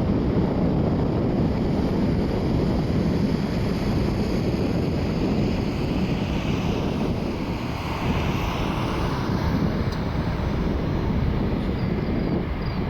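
Steady, loud rumble of jet airliner engines mixed with wind buffeting the microphone, with a faint higher whine swelling about halfway through.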